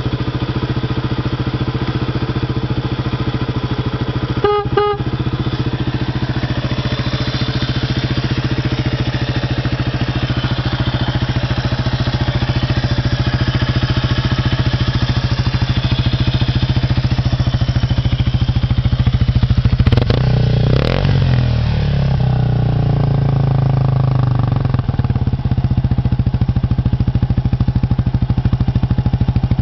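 Kawasaki Estrella RS 250 cc air-cooled single-cylinder engine idling steadily. Two short beeps sound about four and a half seconds in, and about twenty seconds in the engine note rises and falls for a few seconds before settling back to idle.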